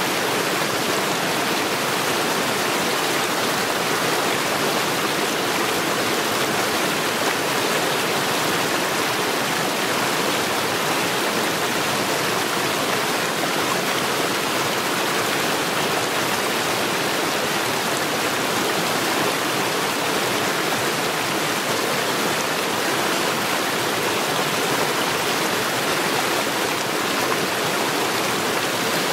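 Mountain stream rushing over stones, a steady, even roar of flowing water with no change.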